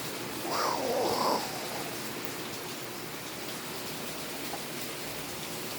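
Steady rain falling. About half a second in, a brief wavering sound, under a second long, rises over the rain.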